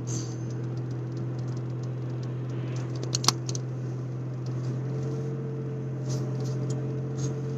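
Steady low hum inside a car cabin, with a few faint high pitched lines above it and a couple of sharp clicks about three seconds in.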